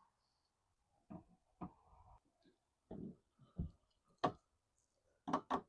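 Scattered light clicks and knocks of a windshield wiper arm being handled and fitted onto its splined pivot shaft, with a quick cluster of sharper clicks near the end.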